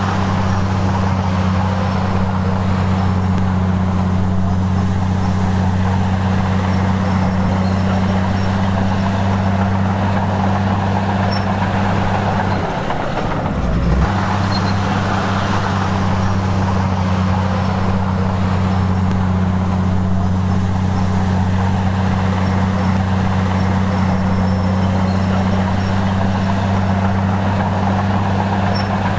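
Heavy diesel engine of earth-moving machinery running at a steady speed with a constant low drone, briefly dropping out just under halfway through, then running on unchanged.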